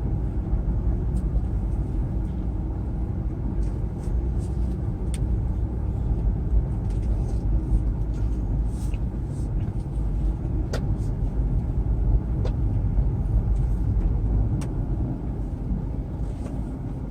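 Kia Morning (TA) small car driving slowly, a steady low engine and road rumble with a few light ticks.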